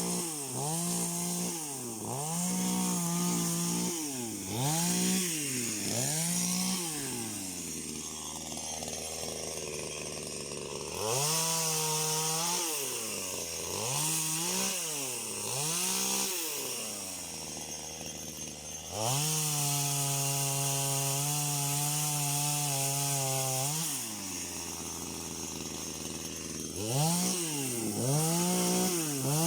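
Two-stroke chainsaw revved in quick blips about once a second, dropping back to idle between bursts, then held at high revs for about five seconds midway.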